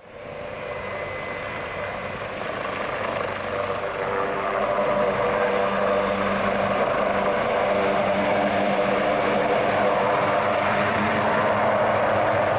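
AgustaWestland AW139 twin-turbine helicopter departing: a steady rotor and turbine noise that grows louder over the first few seconds, then holds steady.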